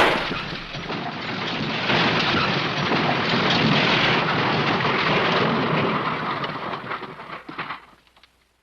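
A crash sound effect: a sudden loud impact, then about eight seconds of dense rumbling, clattering noise that dies away near the end.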